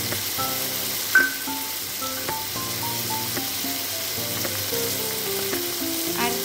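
Fried potato cubes sizzling steadily in hot oil in a kadai, under background music of held notes. A brief sharp knock about a second in.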